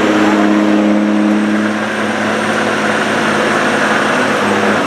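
Semi truck's diesel engine running hard at a steady high pitch while pulling the sled, the note easing slightly near the end.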